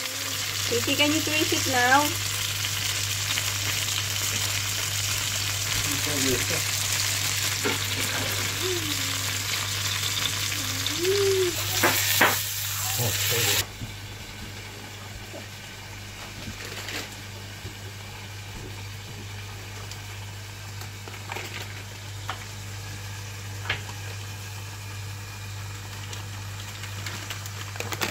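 A seasoned patty frying in a pan, with a loud, steady sizzle. About halfway through it drops suddenly to a quieter sizzle, with a few light clicks.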